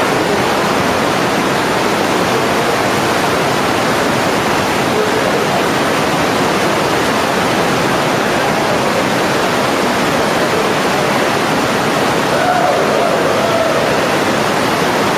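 Loud, steady rush of water from a waterfall, a continuous wash of noise without breaks.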